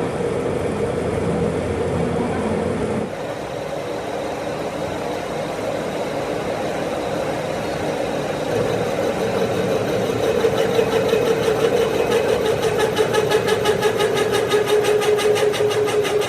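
A motor running steadily, with a fast, even pulsing over its hum in the second half.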